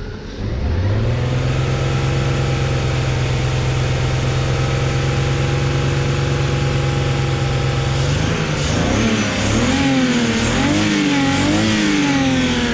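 BMW E36 engine running hard: the revs climb in the first second and then hold steady for several seconds. Near the end the revs rise and fall several times.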